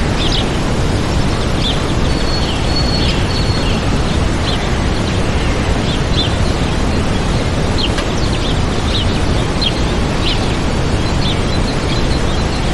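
Waterfall rushing steadily, with small birds chirping over it in short, frequent high calls.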